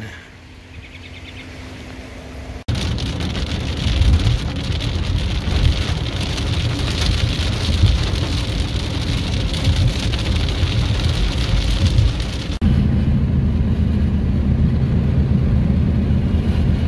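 Heavy rain hissing with a low rumble of a vehicle on the road. A little over ten seconds in it changes abruptly to a steady vehicle engine hum.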